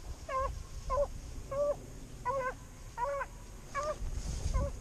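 Beagle baying on a hunt: short, repeated bawling barks, about two a second, in a steady run, as a hound gives voice when working a rabbit's scent.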